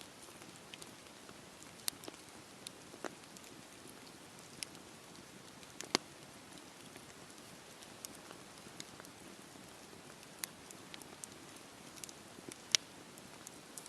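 Campfire burning: a soft steady hiss of flames with irregular sharp crackles and pops of wood, two louder pops about six seconds in and near the end.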